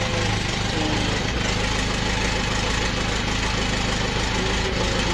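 BMW K1's 1-litre inline four-cylinder engine idling steadily, evenly and without knocks or odd noises: a healthy idle.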